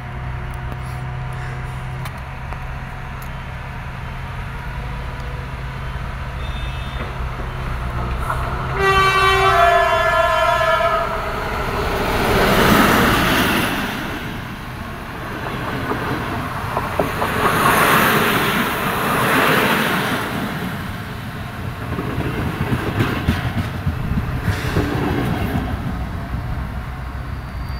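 A diesel locomotive hauling double-deck passenger coaches approaches with its engine humming low, gives a two-note horn blast, low then higher, about nine seconds in, then passes close by with its wheels loudly rolling over the rails.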